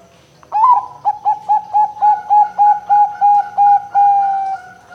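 Zebra dove (perkutut) singing one phrase: an opening note, a quick run of about a dozen short cooing notes at roughly four a second, ending in a long drawn-out note that fades.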